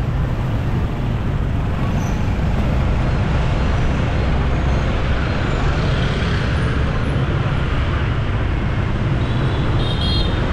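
Motorbike riding through city traffic: a steady rumble of engine and road noise, with a brief high tone near the end.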